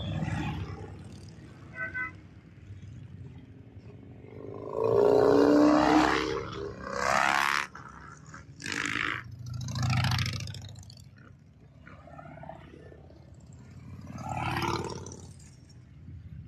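Motorcycles in a passing parade: engines running, with one loud rising rev about five seconds in as a bike accelerates by, then several shorter revs.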